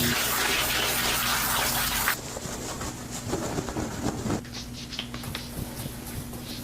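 Water spraying in a steady rush during a dog's bath, cutting off about two seconds in; quieter splashes and clicks follow.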